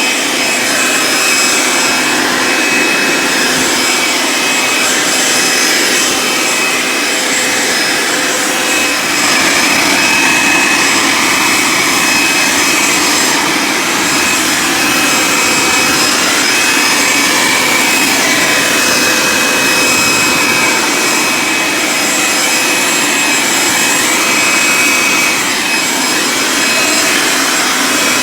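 Leaf blower running steadily, blowing water off a freshly washed car: a loud, even rush of air with a high whine.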